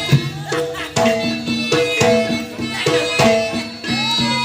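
Live Javanese jaranan (kuda kepang) music: kendang hand drums beating a quick, even pattern, about three to four strokes a second, over sustained gamelan-style tones. Near the end a melody line slides up and holds.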